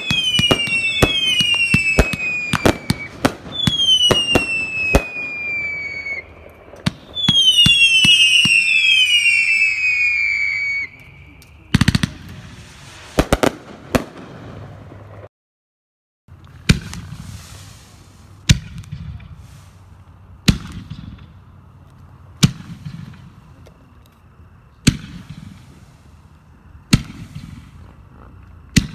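Pyroland Cascadia Rising 500g firework cake firing rapid shots with loud falling whistles, then a few heavier bangs. After a brief break, 3D Pro Comets and 3D Pro Mines 5-inch canister shells are fired singly, a sharp bang about every two seconds.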